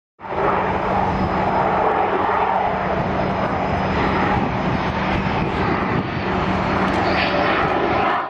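Loud, steady aircraft engine noise, a dense roar with a faint steady hum beneath it. It starts abruptly just after the start and is cut off abruptly at the end.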